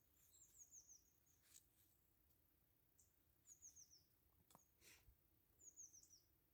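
Faint, high-pitched small-bird calls: three short runs of quick falling chirps, at the start, in the middle and near the end. A few soft clicks fall between them.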